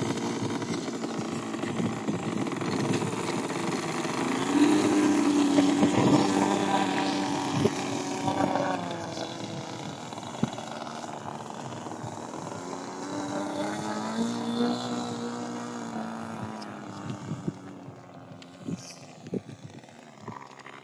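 7.5cc IC engine of an RC model airplane running, its pitch rising and falling as the throttle changes. It grows fainter over the last few seconds, with a few sharp clicks.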